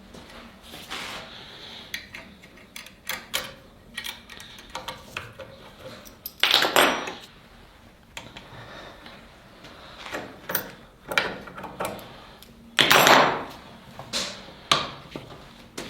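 Hand tools and knife parts handled at a workbench: scattered clicks and knocks, with two louder scraping strokes about six and a half and thirteen seconds in.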